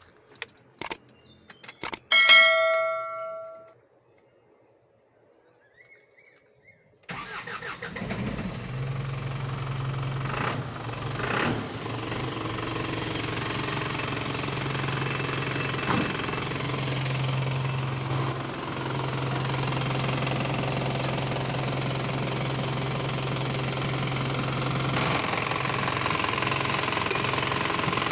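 Isuzu Elf tipper's 4HF1 four-cylinder diesel engine starting about seven seconds in and then idling steadily, a little louder near the end. Before it come a few clicks and a short tone.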